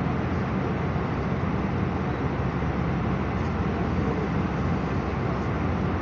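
Steady cabin noise inside an Airbus A319: a constant low rumble of engines and airflow, even in level throughout.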